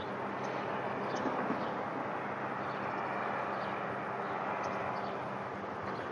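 Steady drone of distant engine noise, with a few faint high chirps over it.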